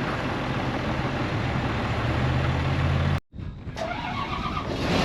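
A farm machine's engine running steadily, getting a little louder toward three seconds in, then cutting off abruptly before a different engine sound comes in.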